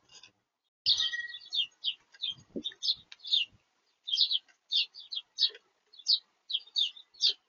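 Small birds chirping in rapid, short, high calls, many in quick succession, starting about a second in.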